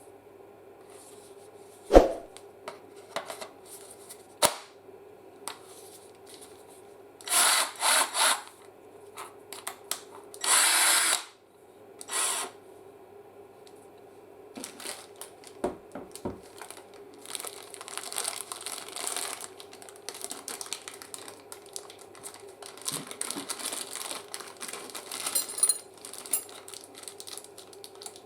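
Metabo BS 18 L 18 V cordless drill/driver run in short trigger bursts: two quick ones about eight seconds in, a longer one around eleven seconds and a brief one after it, with fainter runs later. A sharp knock about two seconds in.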